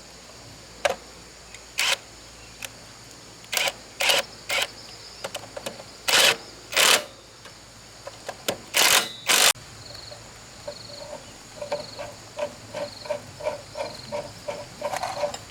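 Irregular sharp clicks and knocks, a few of them longer scraping strokes, over a steady high drone of insects. In the second half, a rhythmic series of short calls comes about twice a second, like a frog calling.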